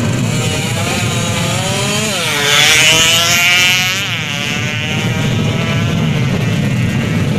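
Drag-racing motorcycle engine at full throttle, its pitch climbing, dropping sharply at a gear change about two seconds in, then climbing again as the bike accelerates down the strip. It is loudest a few seconds in, then settles to a steady high drone.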